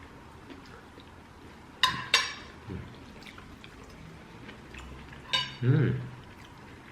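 Cutlery clinking against plates while eating: a couple of sharp ringing clinks about two seconds in and another near the end, with quiet handling of dishes between.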